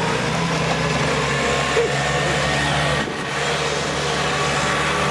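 A vehicle engine running steadily, with a brief dip about three seconds in.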